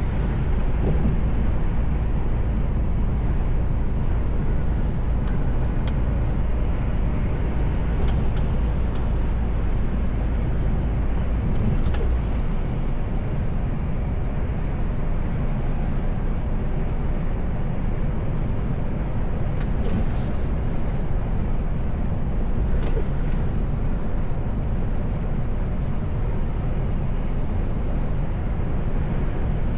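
Inside the cab of a Mercedes Actros L truck on the move: steady diesel engine drone and road noise. The low engine note changes about twelve seconds in, with a few faint clicks here and there.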